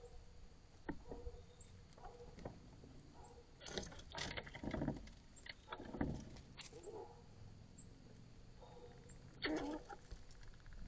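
Outdoor ambience with faint bird calls and scattered short rustles and knocks, which come in clusters about four, six and nine and a half seconds in.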